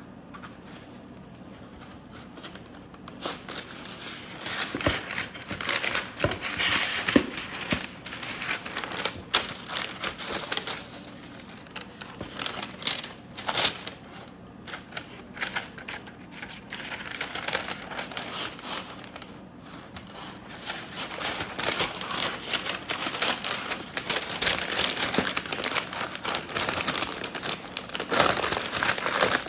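Parchment paper crinkling and crackling in irregular bursts as it is handled and laid over a plate, starting a few seconds in.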